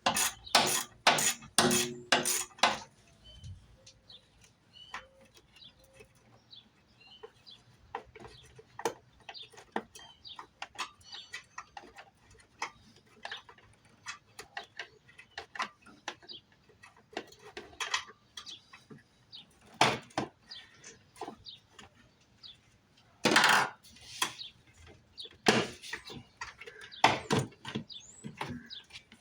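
A socket ratchet clicking rapidly for the first couple of seconds, then scattered metallic clinks, taps and clanks of hand tools and parts being handled in a car's engine bay, with a louder knock about two-thirds of the way through and a few more clanks near the end.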